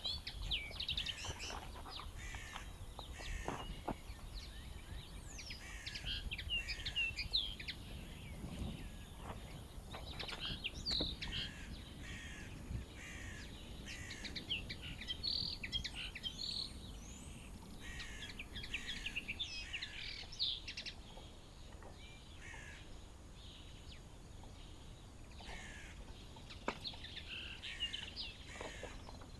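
Small songbirds chirping and trilling, many short high calls overlapping, with a quieter stretch about two-thirds through, over a faint low outdoor rumble.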